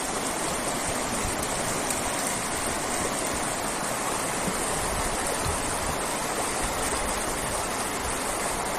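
Steady rushing of river water, an even noise with no let-up.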